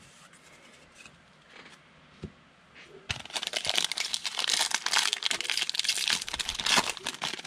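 A foil trading-card pack wrapper being torn open and crinkled by hand, with a few faint handling clicks before it, and dense crinkling from about three seconds in.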